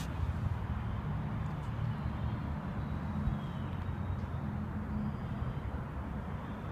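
Steady low rumble of distant road traffic, with a single sharp click at the very start.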